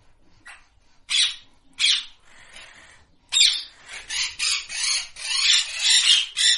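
Pet green parrot squawking: a few short, harsh squawks about a second apart, then a quick, almost unbroken run of squawks through the second half.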